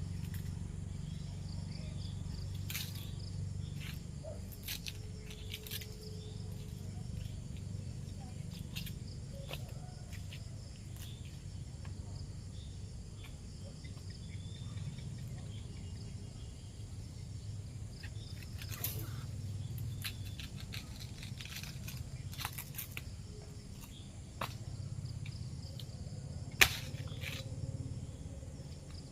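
Outdoor rural ambience: a steady low hum with faint insect chirring, broken by scattered sharp clicks, one of them much louder about 26 seconds in.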